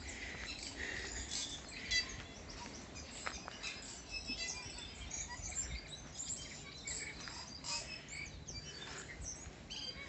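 Tui singing: a busy, irregular run of short high notes, chirps and clicks, with a brief knock about two seconds in.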